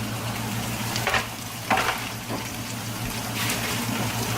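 Food sizzling on the stove, a steady hiss over a low hum, with a few short louder sounds about a second and two seconds in.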